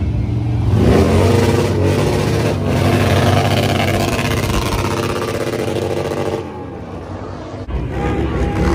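Motorcycle engine revving loudly. It climbs about a second in, is held high for about five seconds, then drops back and picks up again near the end.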